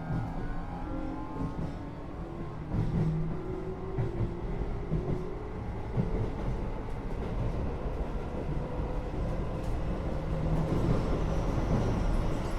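Keio 8000 series train's Hitachi GTO-VVVF inverter and traction motors whining as the train accelerates, the whine climbing slowly in pitch over a steady rumble of wheels on rail, heard from inside the car above the main controller.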